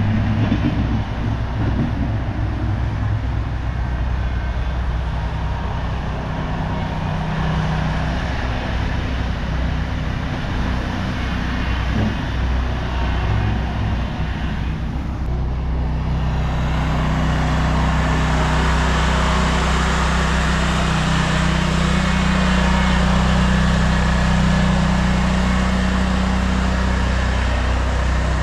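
A motor vehicle's engine running steadily with a low hum. About halfway through, a louder rushing noise joins it and keeps on.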